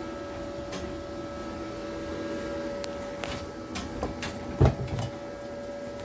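A steady machine hum with a few light knocks and one louder thump about two-thirds of the way through.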